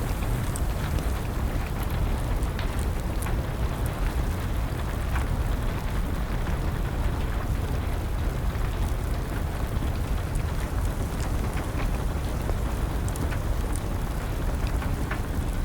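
Steady rain with a deep, even rumble underneath, and the scattered small pops and crackles of a wood fire.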